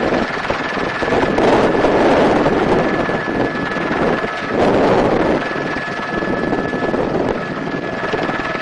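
Helicopter in flight heard from inside the cabin: the rush of rotor and engine noise, with wind buffeting the microphone in swells and a thin steady high whine running through it.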